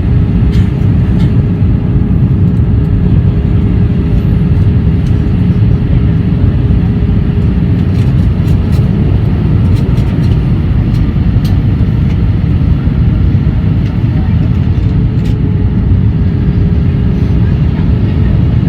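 Airbus A320 in flight heard from inside the passenger cabin: a loud, steady low roar of engines and airflow with a constant hum over it.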